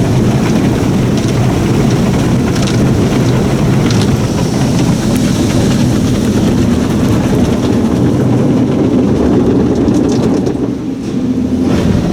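Autec In-Bay Express soft-touch car wash scrubbing the car, heard from inside it: cloth mitter curtains and wash material rubbing over the body amid spraying water, a loud steady rushing with a few sharper hits. It eases briefly about ten and a half seconds in, then picks up again.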